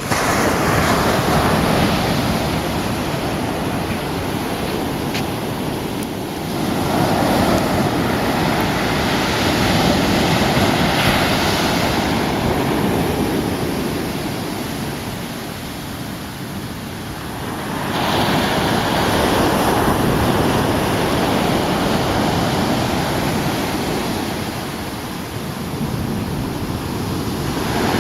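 Surf breaking on a beach in the rough sea left after a typhoon, the wash swelling and ebbing every several seconds as the waves come in.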